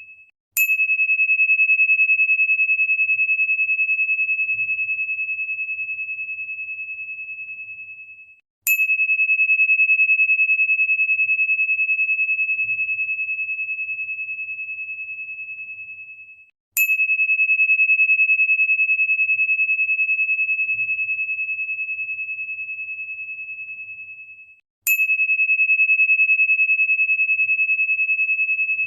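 A high, pure ringing tone, like a struck crystal tuning fork, sounded four times about eight seconds apart. Each strike starts with a sharp click and fades slowly before the next.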